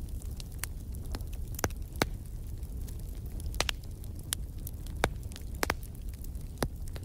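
Wood fire burning in a fireplace: a steady low rumble of the flames with irregular crackles and sharp pops from the burning logs, several louder snaps spread through.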